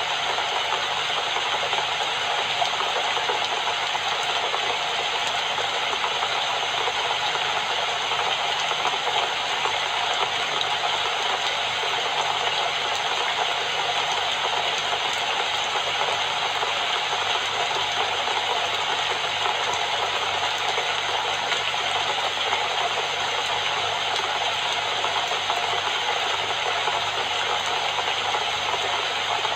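Steady, even rain, with no breaks and no single drops or thunder standing out.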